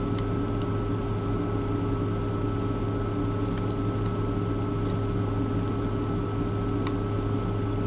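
Steady mechanical hum of an idling semi truck heard inside the cab, with a constant faint high whine over it and a few faint light clicks.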